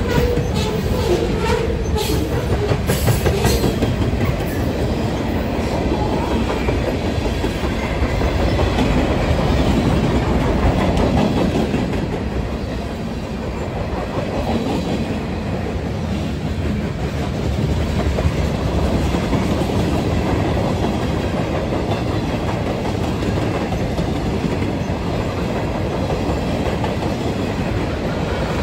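Mixed freight cars of a long manifest train rolling past at speed: a steady rumble of steel wheels on rail, with sharp clicks over rail joints in the first few seconds.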